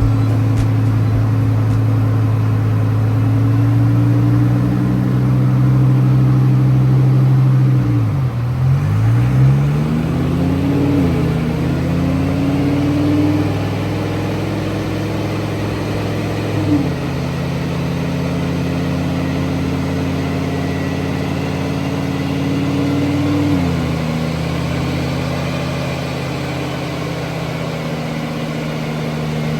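Twin-turbocharged Audi R8 engine running at steady speed. Its pitch dips and climbs back about eight seconds in, then drops in small steps twice later on, like gear changes.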